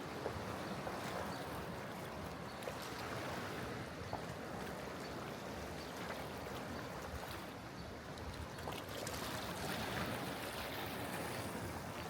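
Sea water washing steadily against a rocky Mediterranean shore, an even rushing wash with a few faint ticks.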